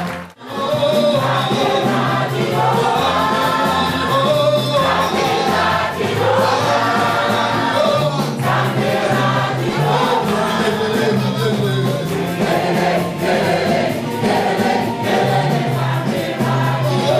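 Gospel worship song sung by a choir with band backing and a steady bass line. The sound cuts out for a moment right at the start, then carries on.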